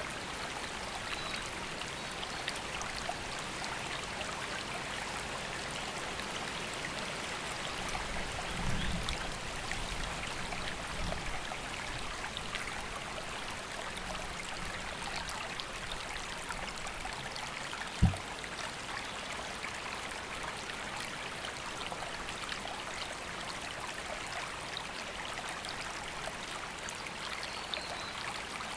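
River water flowing steadily, a constant rushing hiss. A brief low rumble comes about nine seconds in, and a single sharp low thump about eighteen seconds in.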